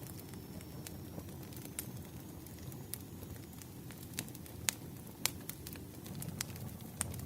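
Wood fire crackling: a steady low rumble of burning logs with scattered sharp pops, the loudest a little past the middle and just before the end.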